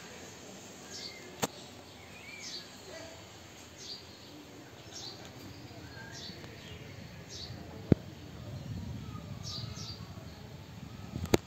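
Small birds chirping, short high chirps about once a second, over faint background noise. Two sharp clicks, the second and louder about eight seconds in.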